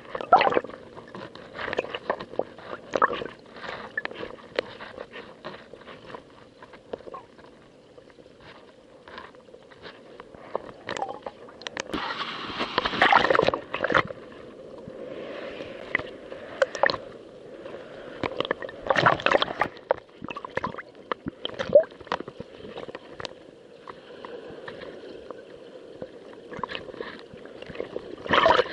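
Small waves slapping, sloshing and gurgling against a kayak's hull in an irregular patter, with two louder surges of water partway through.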